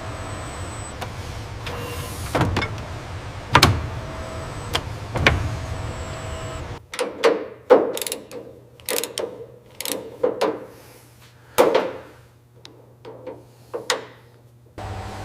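Factory workshop ambience: a steady low hum with a few sharp knocks. About seven seconds in, the hum cuts out abruptly and a quieter run of quick mechanical clicks and clacks follows, and the hum returns right at the end.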